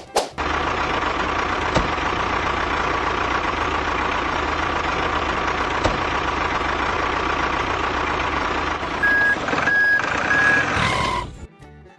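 A truck engine runs steadily. Near the end three short reversing beeps sound, and then the engine cuts off.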